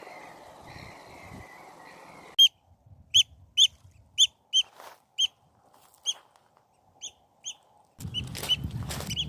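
A bird's short, sharp calls, repeated irregularly at about two a second. A noisy background drops away abruptly about two seconds in and comes back near the end.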